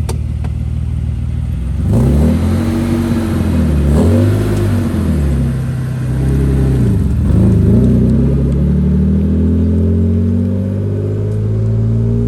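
Car engine pulling away and accelerating through the gears: a steady low drone, then the pitch climbs and drops back at each gear change, twice, and ends in a long slow climb.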